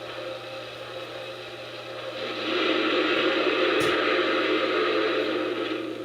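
Lionel model train running on its track, a steady rushing noise that grows louder about two seconds in, with one sharp click near the middle and a steady low hum underneath.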